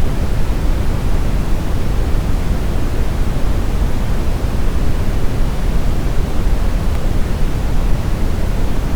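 Smoothed brown noise: a steady, deep, rumbling hiss with most of its weight in the low end, unchanging throughout.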